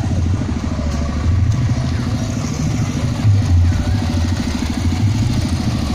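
Loud, deep bass notes pumped through a large outdoor sound system during a sound check, heard as a shifting low rumble.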